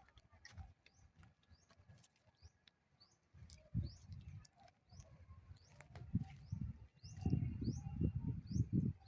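A bird chirping over and over in short, rising notes, about three a second. From about seven seconds in, a louder low rumbling joins it.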